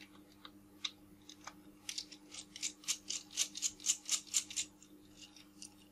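Small precision screwdriver working a stubborn tiny screw out of a camera lens's rear mount, giving a few scattered clicks and then a quick run of sharp metallic clicks and scrapes, about five or six a second, through the middle.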